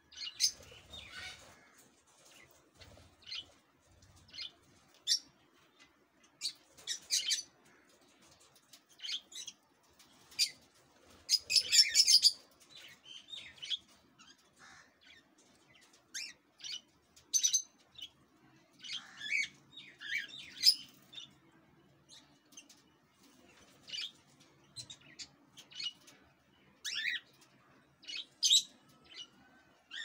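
Aviary birds chirping and squawking in short, irregular calls, with a louder cluster of calls about twelve seconds in and another around twenty seconds.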